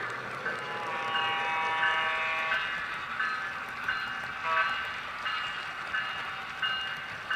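TCS WOW sound decoder in a Broadway Limited PRR F3A model diesel locomotive playing through its small speaker: a bell ringing steadily at about one and a half strikes a second, with a multi-note air horn held for about a second and a half about a second in and a short horn toot about four and a half seconds in.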